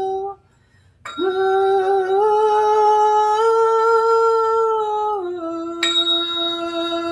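A woman's voice toning a long held 'ooh', the vowel sound for the sacral chakra, in a small room. She breaks for a breath shortly after the start, then sustains the note, stepping slightly up and then dropping to a lower pitch about five seconds in. A brief high clink rings out about six seconds in.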